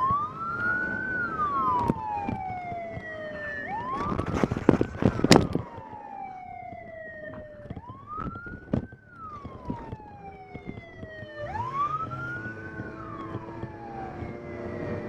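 Police car siren wailing over vehicle engine noise. Each wail rises quickly and then falls slowly, repeating about every four seconds. A short burst of loud crackling clicks comes about a third of the way in.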